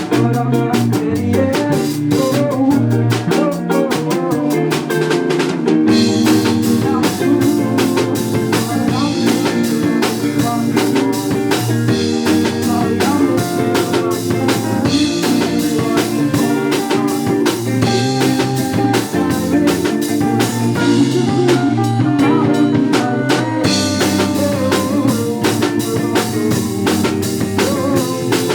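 Live band playing a song: drum kit, guitar and bass, with some singing. The drums fill out with cymbals about six seconds in.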